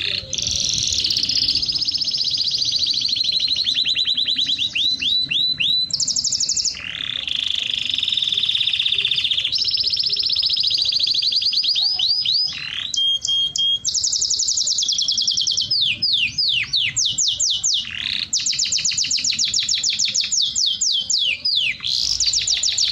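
A small songbird singing a continuous song of fast, high-pitched trills and rolls: runs of rapidly repeated notes and quick downward sweeps, switching to a new phrase every second or two.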